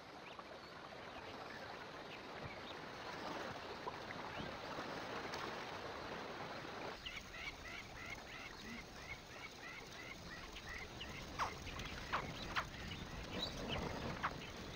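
A soft steady rushing noise. From about seven seconds a bird calls in a quick even run of short repeated notes, two or three a second, with a few sharp clicks a little later.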